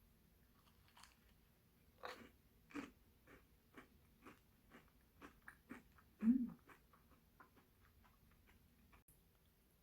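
Close-up chewing of a crisp waffle spread with chocolate cream: a steady run of small crunchy clicks, about two to three a second.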